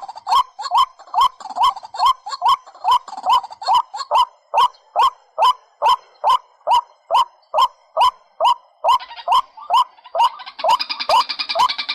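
A bird calling over and over in short, upward-hooked notes at an even pace of about two and a half a second. About nine seconds in, a second, higher-pitched chattering call joins in.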